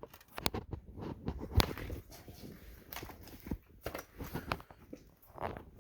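Irregular light knocks, clicks and rustles of things being handled and moved at close range.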